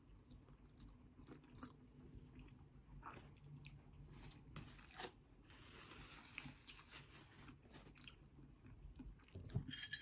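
Faint chewing and small wet mouth clicks of someone eating a mouthful of sweet spaghetti, with a soft rustle of a paper tissue around the middle.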